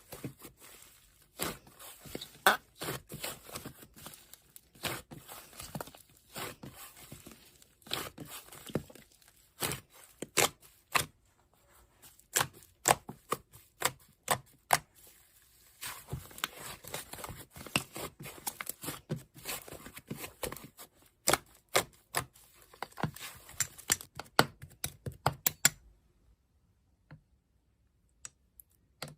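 Slime being squished and stretched by hand: a dense run of crackling clicks and pops, which stops suddenly a few seconds before the end.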